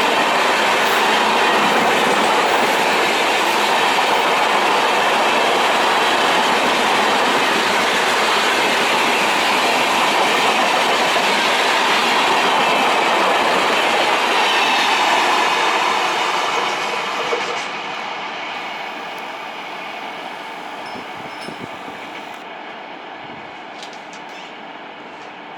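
Shatabdi Express passenger train running through a station without stopping, its coaches rolling past with a steady clatter of wheels on the rails; about two-thirds of the way through, the last coach goes by and the sound drops and fades away.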